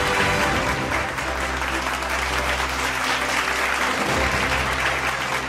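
Applause over background music, the clapping spread evenly and the music holding steady low notes beneath it.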